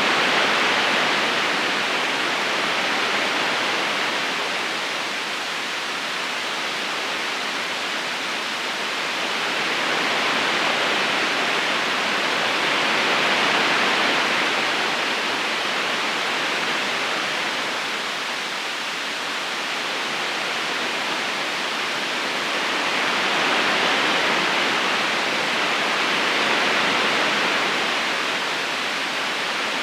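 River water flowing steadily in a gentle current, a constant rushing hiss that swells and eases slowly every ten seconds or so.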